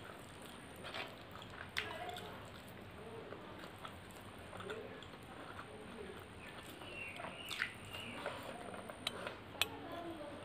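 Close-miked chewing and wet mouth sounds of a person eating rice and mutton curry by hand, with soft squelches of fingers mixing rice into the gravy and a few sharp clicks.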